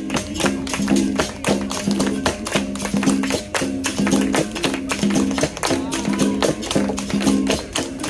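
Live capoeira roda music: a berimbau twanging steadily and switching between its two notes, over a fast, even beat of pandeiro jingles and hand-struck percussion.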